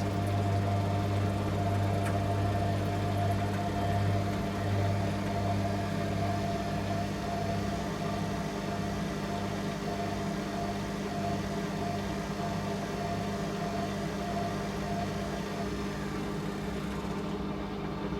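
Candy Aquamatic 100F front-loading washing machine in its final spin at 800 rpm, running with a steady motor hum. A low drone within it pulses on and off through the middle of the stretch, then settles steady again.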